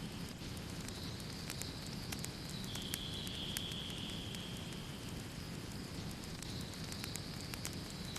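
Wood fire crackling, with frequent sharp pops and snaps over a steady low rumble of burning. A faint, steady high tone runs behind it and steps slightly in pitch now and then.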